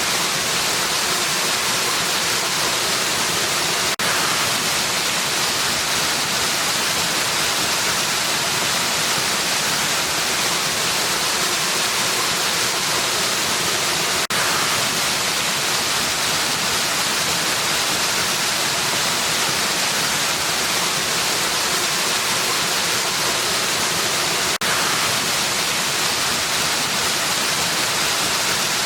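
Waterfall rushing in a steady, even hiss, with a brief dip three times, about ten seconds apart.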